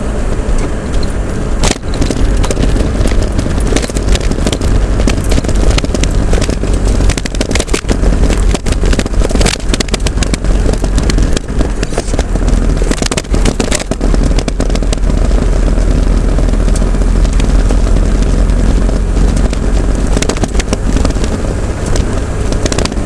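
A road vehicle on the move: steady low rumble of engine and road, with crackling and buffeting on the microphone throughout.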